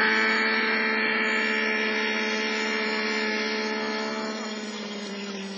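YS 56 glow engine on a radio-control model running steadily during its break-in, growing gradually fainter, with a slight drop in pitch near the end.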